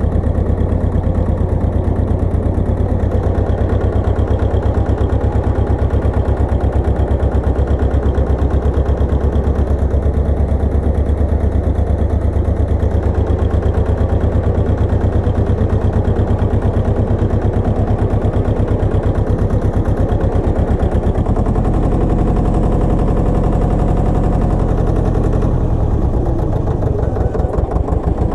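Pasquali 980 EX walking tractor's engine running with a steady, rapidly pulsing note. The note changes about three-quarters of the way through and wavers briefly near the end.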